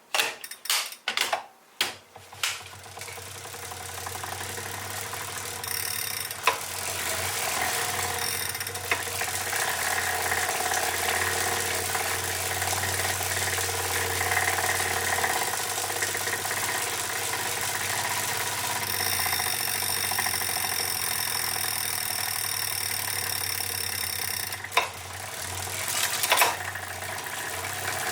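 Wahoo KICKR 2018 smart trainer spinning up and running steadily, a mechanical whir with whining tones and occasional sharp knocks. It is the abnormal noise that returns even with a replacement roller assembly, which the owner puts down to a flawed design.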